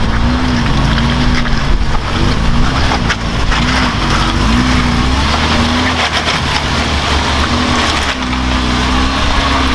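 Off-road vehicle engine running under load, its revs rising and falling again and again as the throttle is worked, over a steady low rumble.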